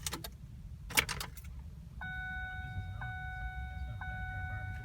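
Two sharp clicks from the ignition key and switch of a 2009 Ford Fusion, then from about two seconds in a steady electronic dashboard chime, re-struck about once a second. The engine does not crank: the intermittent no-start, no-crank fault, which the owner says is not battery-related.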